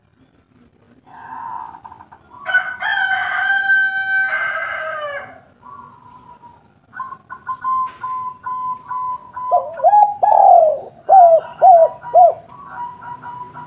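A rooster crows once, a long call that falls away at its end, a few seconds in. Then a spotted dove (tekukur) gives a run of short, hooked coos, over a steady high pulsing note that runs through the second half.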